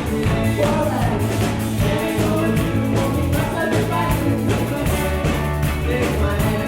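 A live rock band playing, with drums keeping a steady beat under bass, guitar and accordion.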